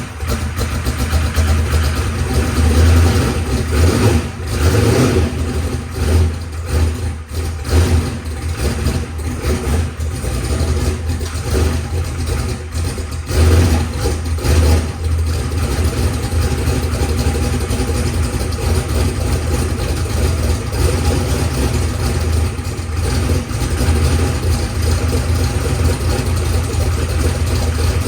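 Methanol-fuelled race car engine running on its first fire-up. It runs unevenly for about the first fifteen seconds, then settles to a steadier idle.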